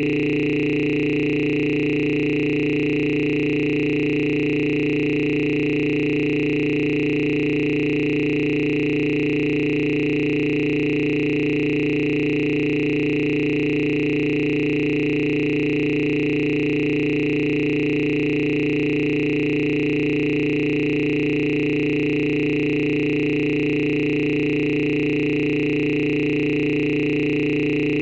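A steady electronic drone of several held tones, completely unchanging in pitch and loudness.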